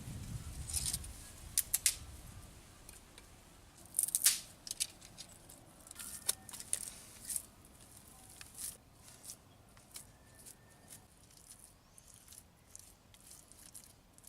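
Irregular light clicks and taps, with a couple of sharper snaps about two and four seconds in, over a quiet background.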